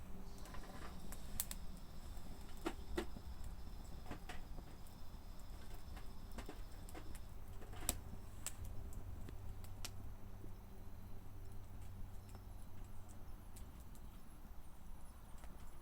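Campfire burning, the wood crackling with irregular sharp pops over a low steady rumble.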